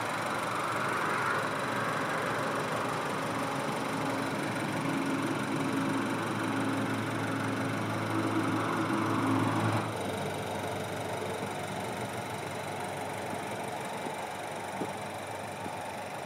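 Škoda Superb's TSI direct-injection petrol engine idling, heard from outside the car, with the light chattering typical of its direct injection. About ten seconds in, part of the sound drops away and it runs a little quieter.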